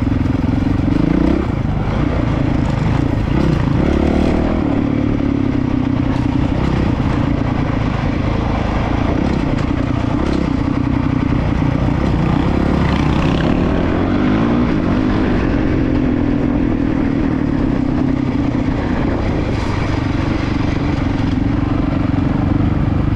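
Honda CRF450RL's single-cylinder four-stroke engine running continuously while riding a rocky trail, its pitch rising and falling as the throttle opens and closes.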